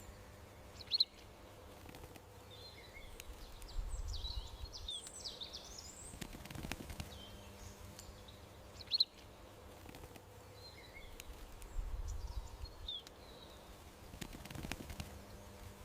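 Small songbirds chirping and twittering, short high calls scattered over a faint steady hum. The same chirps and low rumbles come back about every eight seconds.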